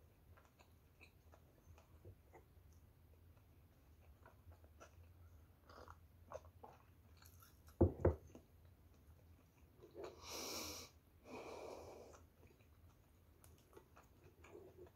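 Close-miked chewing of a soft-bread sandwich, with small moist mouth clicks. A loud low double thump comes about eight seconds in. About two seconds later come two long breaths through the nose, about a second each.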